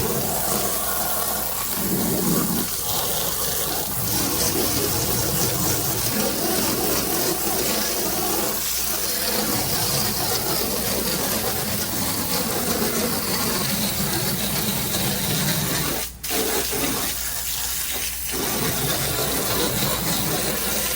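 Plain water sprayed from a soft-wash system's hose, a steady hiss and splash as the house is rinsed down; the spray cuts out for a moment about sixteen seconds in.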